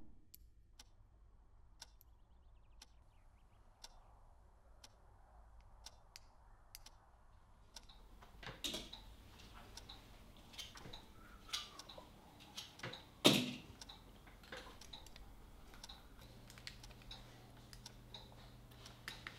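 Faint small metallic clicks and taps of watchmaker's tweezers and tools handling the parts of a watch movement on the workbench. They are sparse and irregular at first, then denser from about 8 seconds in, with one sharper click about 13 seconds in.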